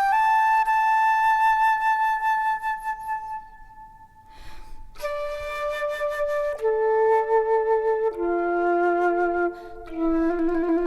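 Background music: a slow flute melody of long held notes. It falls quiet briefly about four seconds in, then resumes with notes stepping downward in pitch.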